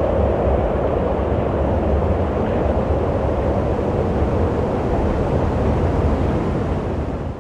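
Steady rushing wind, a constant noise with a low rumble underneath; it fades out right at the end.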